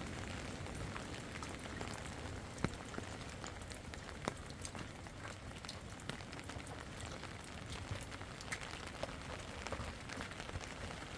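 Rain falling, an even hiss with many scattered drops ticking on a surface and a few sharper taps.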